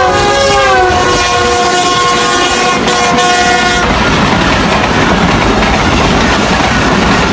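Express train locomotive horn sounding one long chord whose pitch drops in the first second as the locomotive passes, cutting off about four seconds in. Then the rumble and clatter of the train's coaches going by at speed.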